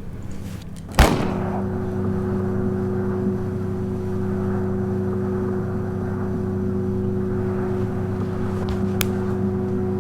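A single sharp bang about a second in, followed by a steady low drone made of several held tones.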